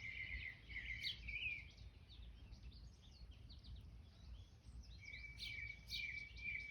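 Small birds chirping and calling around a feeder: many short chirps, with a run of quick repeated notes at the start and again from about two-thirds of the way through. A faint low rumble sits underneath.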